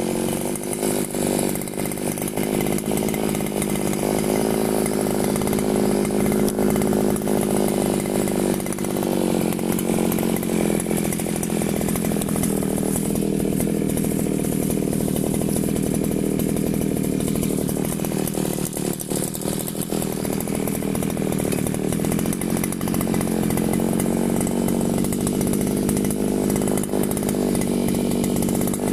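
Firman FGB 528 two-stroke brush cutter running near full throttle while cutting grass. Its engine note sags briefly a couple of times as the load comes on, then recovers.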